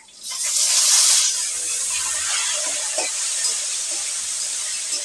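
Chopped tomatoes dropped into hot oil and frying onions in an aluminium kadai, sizzling: a loud burst of hissing as they go in, settling into a steady sizzle after about a second.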